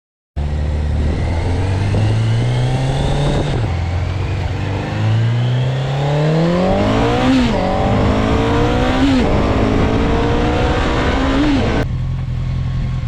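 1983 Honda CB550SC Nighthawk's air-cooled inline-four accelerating on a test ride. The engine note climbs and drops back at each gear change, about four times, then settles to a steady lower note near the end.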